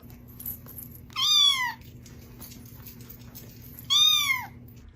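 A domestic cat meowing twice, about three seconds apart, each meow falling in pitch, over a steady low hum.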